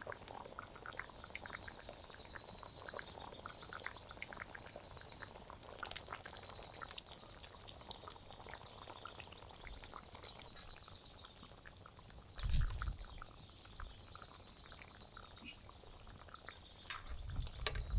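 Meatballs in tomato sauce simmering in a cast iron pan, faint scattered bubbling pops, with a thin steady high trill behind it and two brief low rumbles, one about two-thirds of the way in and one near the end.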